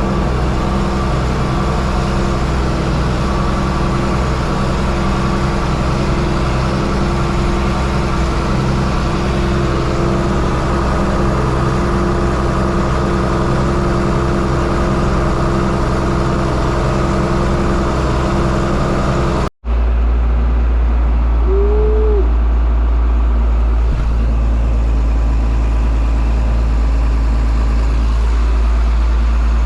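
Farm tractor engine running steadily at constant speed. About two-thirds of the way through, the sound cuts out for an instant and comes back as a deeper, heavier engine rumble.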